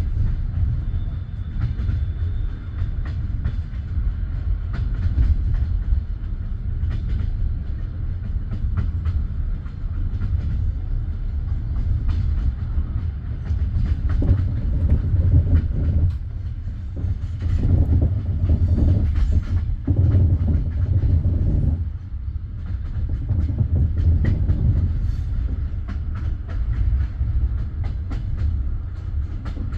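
Railway wheels rumbling steadily on the track, with irregular clicks and knocks from rail joints and switches, heard from a passenger carriage. It swells louder for a while in the middle.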